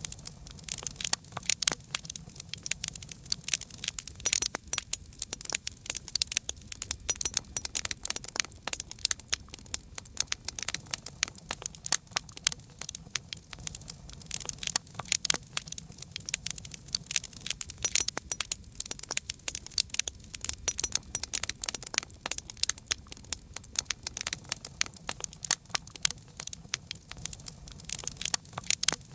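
Campfire crackling: wood burning with a dense, irregular stream of sharp pops and snaps over a faint low rumble of the flames.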